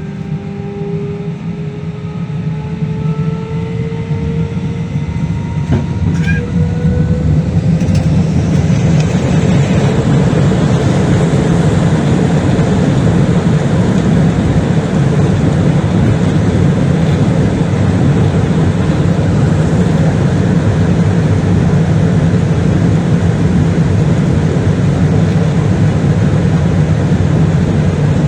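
Jet airliner engines spooling up with rising whining tones, then running at takeoff power as the aircraft rolls for takeoff: a loud, steady rush of engine and runway noise that builds over the first eight seconds or so and then holds.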